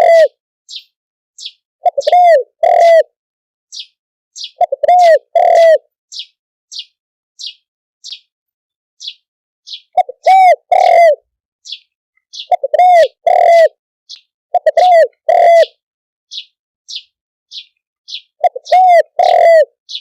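Spotted dove cooing in loud phrases of two or three arching coos every few seconds. Between them a short high chirp repeats steadily, about twice a second.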